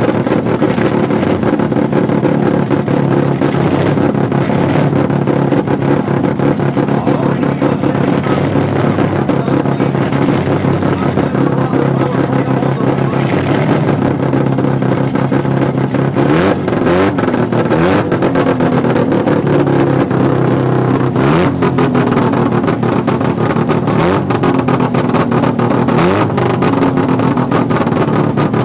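Mazda RX-7's rotary engine running loud and steady at a fast idle, then revved up and down in a series of blips from about 16 seconds in.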